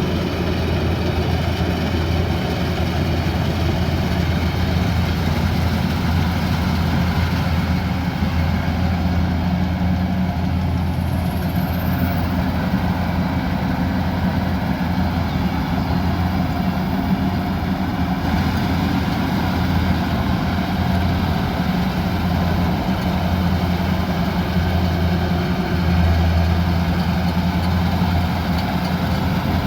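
Kubota combine harvester's diesel engine running steadily, a constant low drone that holds its pitch and level throughout.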